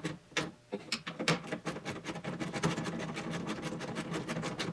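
Quick, irregular metallic clicking and rattling of hand work on a car's dash fittings, as a bracket is settled onto its two mounting bolts and fastened.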